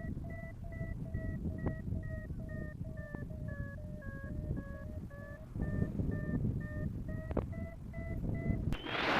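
Paragliding variometer beeping, about three short beeps a second: the climb tone that signals rising air, its pitch sagging a little in the middle and rising again. Near the end a loud rush of wind on the microphone comes in.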